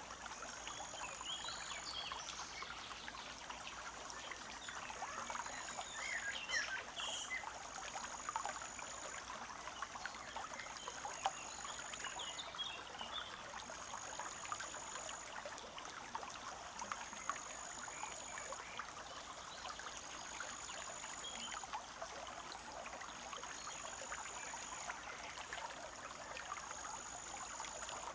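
A forest stream trickling steadily, with small birds chirping now and then. A high, thin note repeats about every two seconds throughout.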